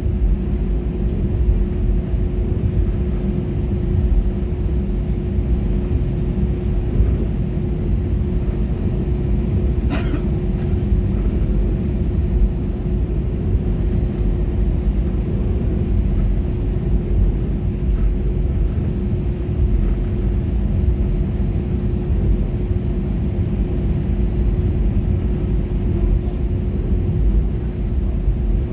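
Airbus A320-214 cabin noise while taxiing after landing: a steady low rumble with a steady hum running under it. One short, sharp click about ten seconds in.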